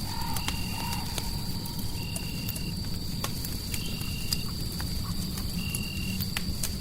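Fireplace crackling with sharp, scattered pops over a steady low rumble and hiss, layered with a constant high whine and a short high-pitched beep-like tone that repeats about every two seconds.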